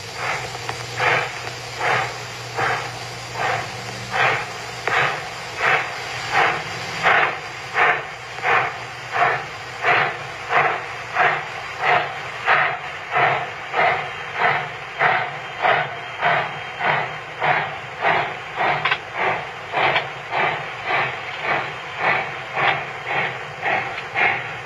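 Steam locomotive working, its exhaust chuffing in an even rhythm of about two beats a second that quickens slightly, with steam hiss between the beats.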